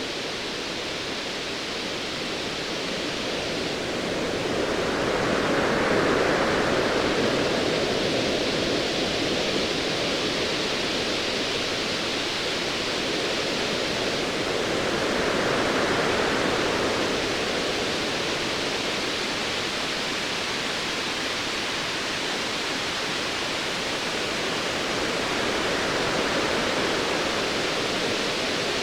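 Sea waves rushing in a steady hiss of surf that swells and eases about every ten seconds, with no clear thunder rumble.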